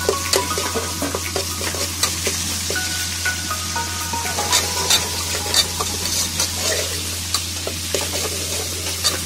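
Onion, green chilli and spices sizzling in hot oil in an aluminium pot, while a metal spoon stirs and scrapes the pot in quick irregular clicks.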